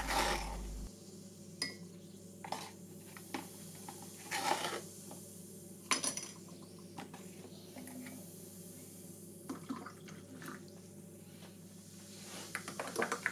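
Metal spoon clinking against a glass while baking soda is stirred into hot water to dissolve it. There are scattered single clinks, then quicker repeated clinking near the end, over a faint steady hum.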